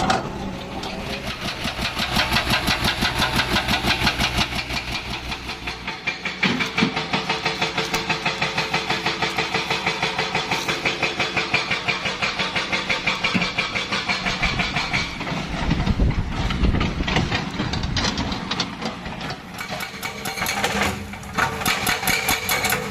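Hydraulic breaker on a Kobelco SK200 excavator hammering with rapid, evenly spaced blows, the excavator's engine running under it.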